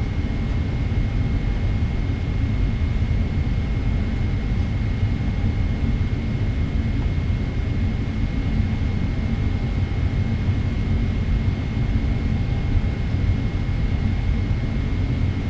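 Steady cabin rumble of a Boeing 777-300ER with its GE90 jet engines at low thrust while taxiing, with a thin steady high tone.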